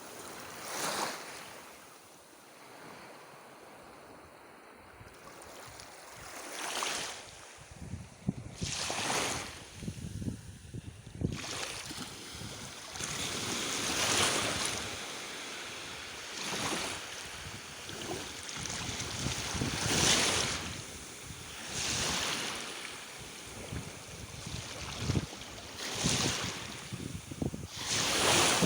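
Small sea waves breaking and washing up the shore, each wash swelling and fading every few seconds, with some wind buffeting the microphone.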